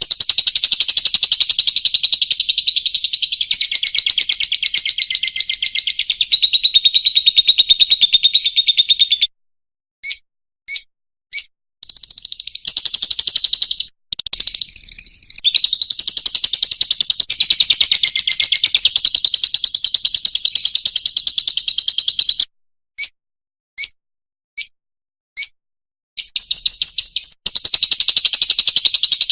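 Fischer's lovebird singing: long, rapid, high-pitched chattering trills several seconds each, broken twice by pauses holding a few single short chirps.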